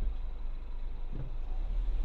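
Low, steady rumble of a Peugeot 508 SW being driven, with a short sound about a second in.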